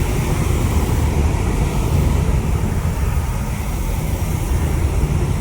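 Steady low rumble of jet airliner engines, mixed with choppy wind buffeting on the microphone.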